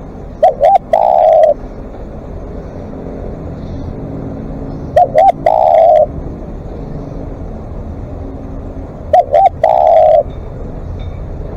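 Spotted dove cooing: three phrases about four to five seconds apart, each two short coos followed by one longer coo.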